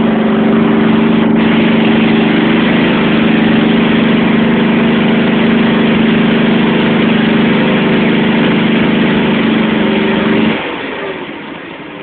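John Deere 325 lawn tractor engine running steadily and loudly just after a cold start. About ten and a half seconds in it drops abruptly to a much quieter, lower running sound, as when throttled down to idle.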